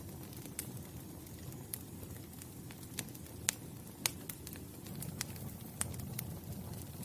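Wood fire burning with a low steady rumble and irregular sharp crackles and pops, the loudest a few seconds in.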